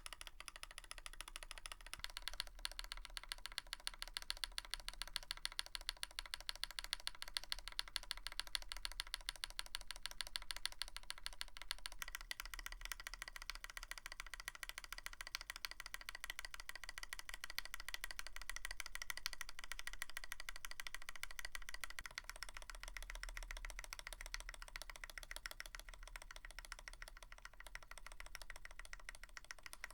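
Continuous fast typing on a Tofu65 mechanical keyboard with a brass plate and PBT keycaps: a dense, steady stream of keystroke clacks.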